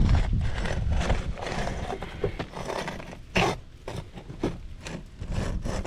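An asphalt shingle being cut by hand: rough, irregular scraping strokes of a blade through the shingle, with one sharper snap a little past the middle.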